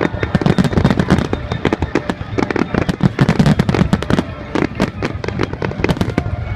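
Aerial fireworks display going off, a dense rapid run of overlapping bangs and crackles throughout.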